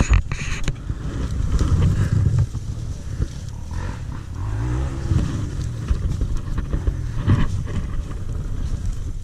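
Dirt bike engine running unevenly, its pitch rising and falling briefly about five seconds in.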